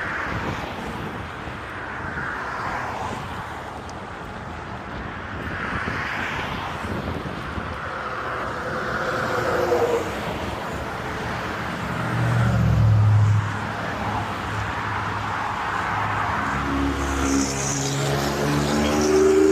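Motor vehicles running, with a louder low rumble about twelve seconds in and a steady pitched engine hum that sets in near the end.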